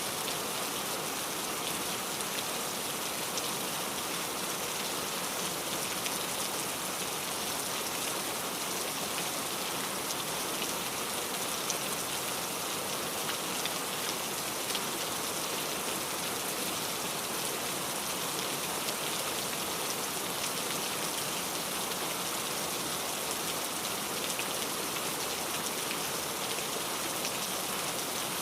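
Steady rain falling, a constant hiss of drops on a surface with faint scattered drop ticks and no let-up.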